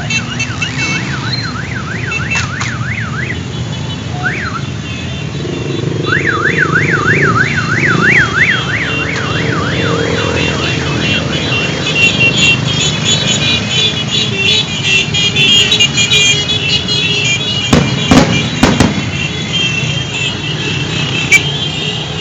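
Motorcycles passing by, engines running steadily, with an electronic siren warbling up and down about three times a second in two stretches during the first half. A short burst of loud knocks comes about three quarters of the way through.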